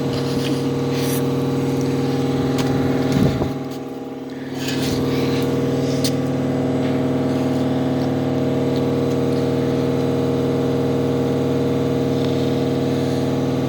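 Steady, even machine hum with a low fundamental and many overtones, briefly dropping in level about four seconds in, with a few faint clicks over it.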